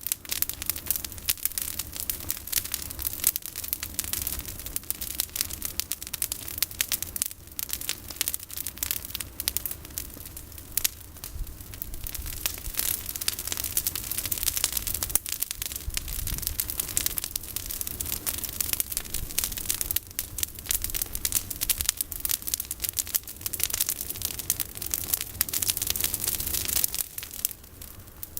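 Campfire of olive-tree branches burning, crackling and popping steadily over a low rumble.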